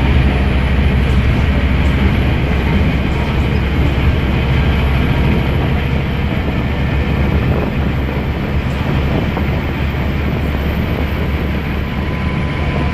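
Scania N230UD double-decker bus's diesel engine running steadily under load through its ZF Ecomat automatic gearbox, heard from on board, with road noise; the level eases a little after about seven seconds.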